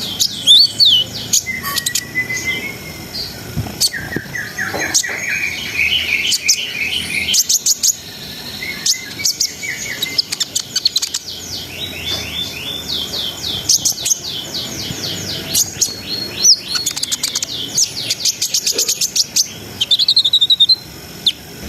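Konin (kolibri ninja sunbird) singing a fast, high twittering song made of rapid runs of repeated notes and rolling trills.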